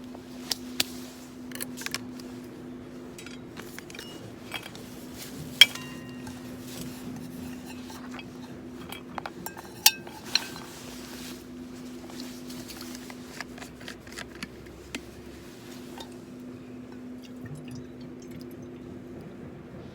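Metal cookware and utensils clinking and knocking at an outdoor cook-up, scattered single clicks, two of them sharp ringing clanks, over a steady low hum.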